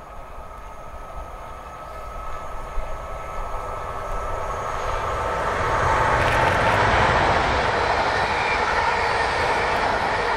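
A train approaching on the main line. Its rumble grows steadily louder over the first six seconds, then holds at full level as it passes, with a steady high tone over the noise of wheels on rail.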